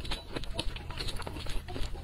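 Close-miked chewing of spicy noodles: a mouthful being chewed with many small irregular clicks.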